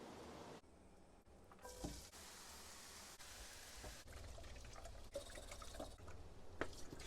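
Faint kitchen sounds: liquid being poured, with a few light knocks, in short stretches that cut in and out.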